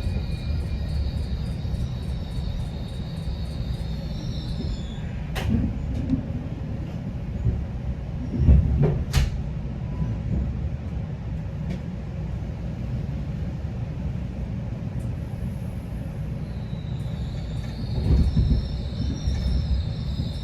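Steady low rumble inside a GO Transit commuter train coach, with a few sharp clicks and knocks, the loudest about nine seconds in, and a thin high whine at the start and again near the end.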